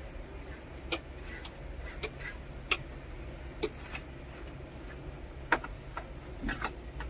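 Irregular sharp clicks and light knocks, about eight over several seconds, from objects being handled and knocked during cleaning, over a steady low hum.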